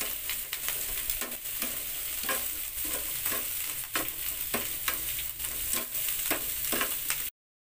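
Onion rings sizzling in a hot ridged grill pan, with frequent sharp clicks and scrapes of tongs against the pan as they are turned. The sound cuts off abruptly near the end.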